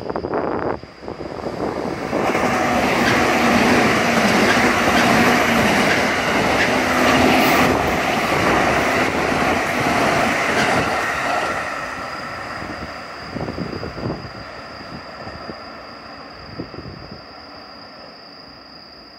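JR West Biwako Line local electric train passing at speed without stopping, with rail rumble and wheel clatter. It builds within about two seconds, stays loud for about nine seconds with a low hum, then fades away.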